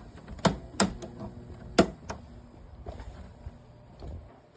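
A few sharp clicks and knocks from handling the Danby window air conditioner, the loudest about half a second, just under a second and nearly two seconds in, over a faint steady low hum. The unit's fan is not turning.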